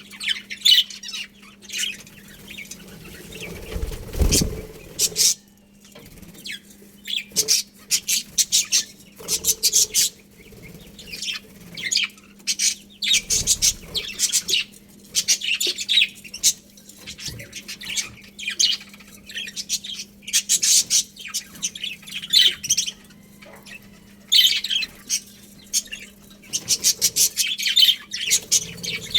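Budgerigars in a colony chirping and chattering in quick, high-pitched bursts, over a steady low hum, with a low thud about four seconds in.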